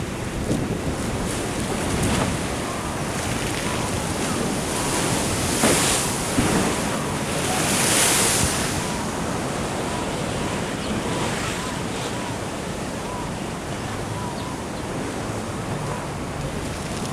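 Ocean surf washing in, with wind buffeting the microphone. The wash swells louder twice, around six and eight seconds in.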